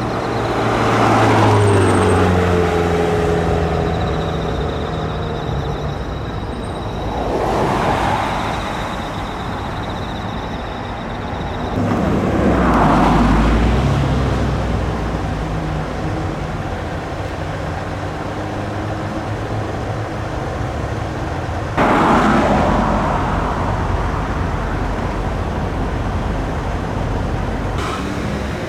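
Cars driving past one after another, each swelling and fading away, over a steady traffic rumble; in the first pass the engine's pitch drops as it goes by.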